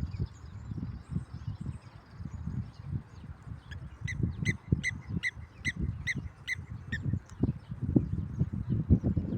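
Blacksmith lapwing calling: a run of about ten short, sharp metallic notes, roughly three a second, in the middle of the stretch. Irregular low thuds underneath throughout are louder than the calls.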